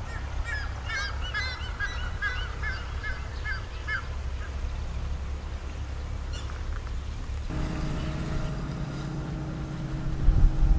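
A bird calls a quick series of sharp, repeated notes, about two a second, for some three seconds over a low outdoor rumble. Then a steady low drone with a hum sets in from an approaching diesel locomotive, getting louder near the end.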